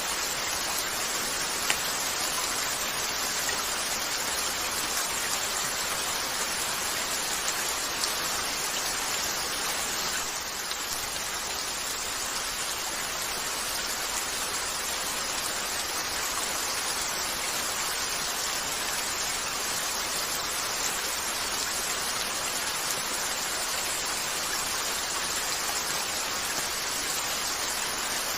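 Steady rain falling on a window, with a fireplace crackling faintly in a few isolated ticks.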